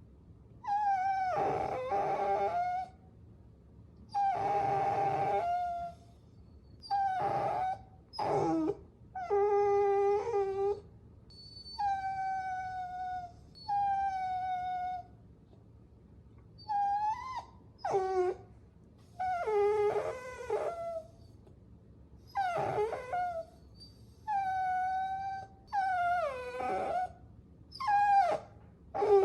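Puppies whining: a string of high, drawn-out whines, each a second or two long with short pauses between, some sliding up or down in pitch.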